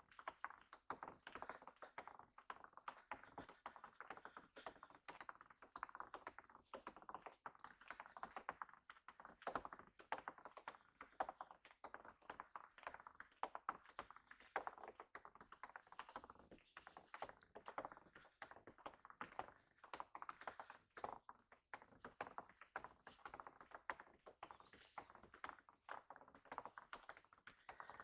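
Falling snow pattering faintly on surfaces: a dense, irregular stream of tiny ticks, many each second.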